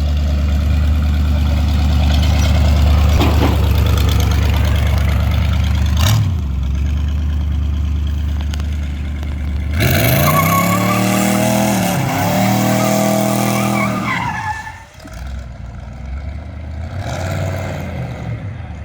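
Twin-turbocharged small-block Chevy 350 V8 running with a steady low drone, then revved hard about ten seconds in, its pitch sweeping up and down for several seconds under a loud hiss. It drops off, then gives a shorter rev near the end.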